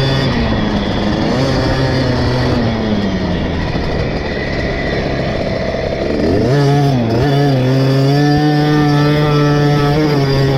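KTM 50 SX single-cylinder two-stroke motocross engine under way: the revs fall off over the first few seconds, then about two-thirds in the throttle opens, the engine revs up sharply and holds at high revs.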